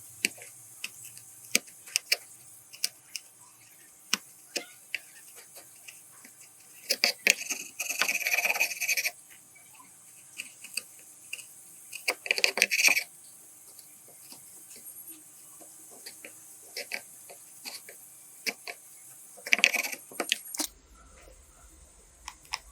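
Scattered small clicks and taps of small parts being handled, with three short, louder bursts of noise, the longest about two seconds.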